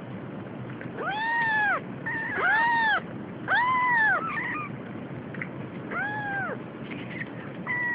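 A domestic cat meowing four times, each meow a drawn-out call that rises and falls in pitch, with a few short, fainter chirps in between.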